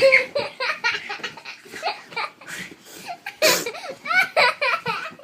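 Children laughing and calling out excitedly, with a louder high-pitched burst about three and a half seconds in.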